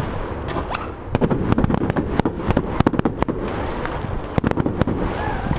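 Fireworks display: many sharp cracks and bangs in quick succession as shells burst.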